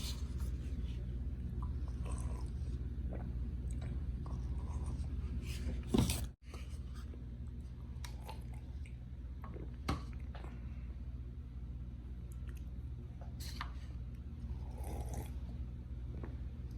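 A person chewing food, with scattered small clicks over a steady low room hum. A louder short noise comes about six seconds in, and the sound cuts out for a moment.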